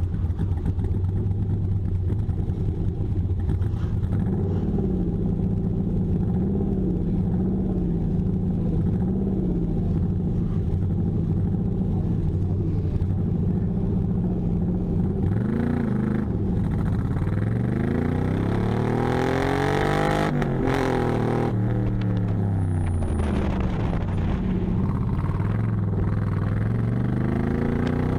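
LS V8 engine idling with a slowly wavering pitch, revved once about fifteen seconds in, then pulling away with its pitch rising and falling again and again as the car accelerates and lifts off through the course.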